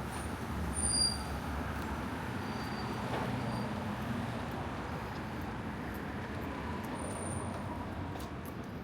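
Steady city street noise with vehicle traffic, a little louder about a second in.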